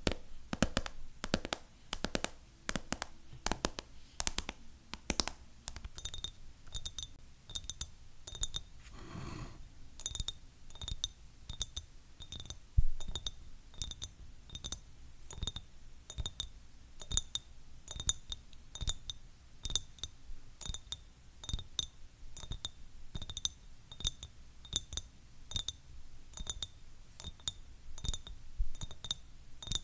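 Fingernails tapping quickly and unevenly on hard objects. For the first few seconds the taps are dull knocks; from about six seconds in each tap rings with a short high tone, as on glass, and about nine seconds in there is a brief rub across the surface.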